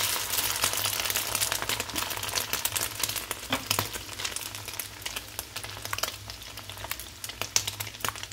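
Egg-coated macaroni, chicken and potato triangles shallow-frying in oil over medium heat: a dense crackling sizzle. It is loudest just after a fresh triangle is laid in the hot oil and slowly eases off.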